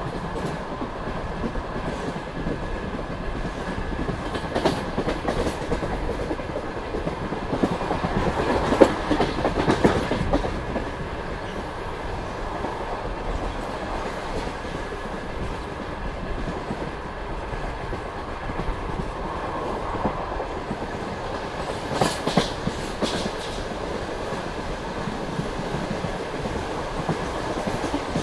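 Passenger train running at speed, its carriage wheels rumbling steadily on the rails with a clickety-clack over the track joints. The noise swells a little about a third of the way in, and a few sharp knocks come near the end.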